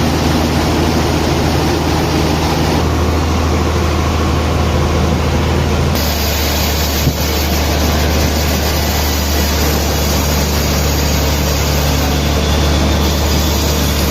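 Sawmill machinery running steadily, a loud low hum under a broad mechanical noise. The sound changes abruptly twice, about three and six seconds in, with a single short knock about seven seconds in.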